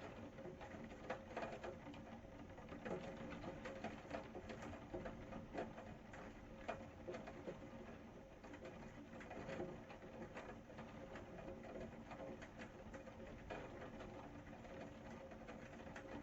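Rain falling in many scattered drops, faint and irregular, with steady low bird calls underneath.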